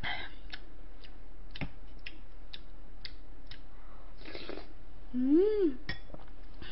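Close-miked eating: chewing with small wet mouth clicks about twice a second and a short slurp-like hiss about four seconds in. Just after five seconds comes a brief hummed "mm" that rises and falls.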